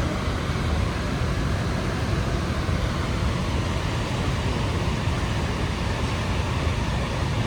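Steady roar of the Rhine Falls: heavy falling and churning water, an even rush with a deep rumble underneath.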